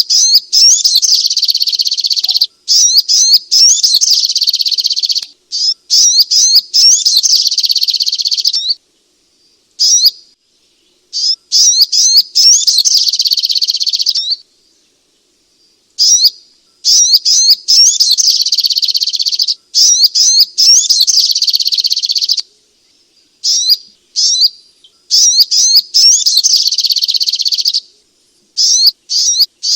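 Sogok ontong (little spiderhunter) singing: long, rapid, high-pitched runs of repeated notes in bouts of a few seconds, broken by short pauses.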